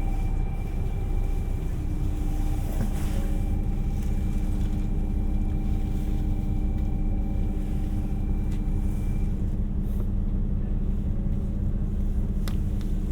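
2700 series diesel multiple unit train running, heard from on board: a steady low rumble with a couple of steady humming tones, and a faint higher whine that stops about nine seconds in.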